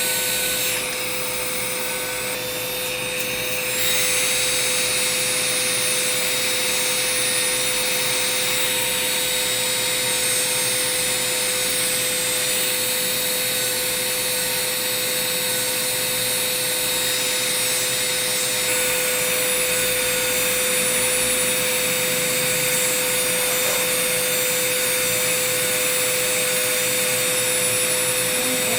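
Electric rotary foot file grinding hard skin from a foot: a steady motor hum with a rough sanding sound over it, a little louder from about four seconds in.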